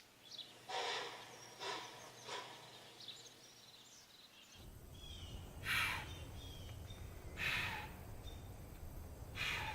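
White-tailed deer chuffing: short breathy blows given as warnings. There are three quick ones in the first two and a half seconds, then three stronger ones about every second and a half from the middle on. Faint bird chirps run between them.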